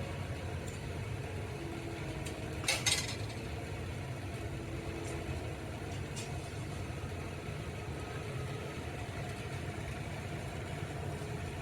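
Steady low mechanical rumble, with a short clatter about three seconds in.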